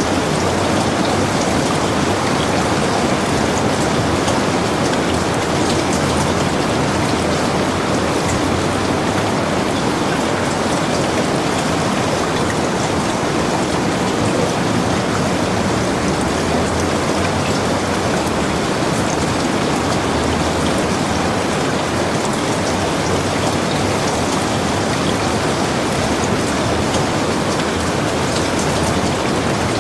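Heavy rain falling steadily on a log cabin, a dense even hiss with scattered drop ticks.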